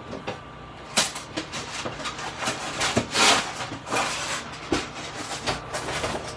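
Thin steel plates and skewers of a Picogrill 398 folding fire pit being packed into a fabric storage bag: cloth rustling and swishing, with light metal clicks and knocks.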